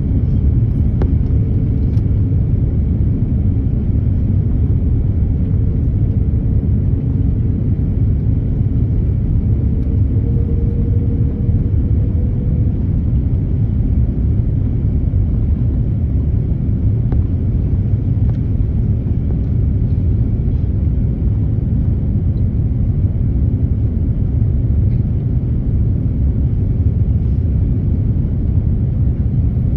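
Steady low rumble of an airliner's cabin noise during the landing approach, with a faint thin tone that rises slightly about ten seconds in.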